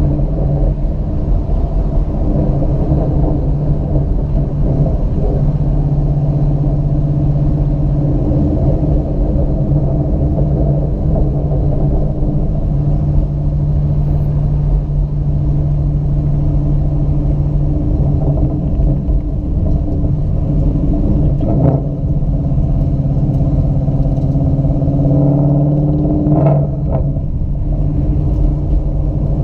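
Ford Mustang GT's V8 engine running steadily at low revs as the car rolls slowly, heard from inside the cabin, with a couple of brief sharper sounds near the end.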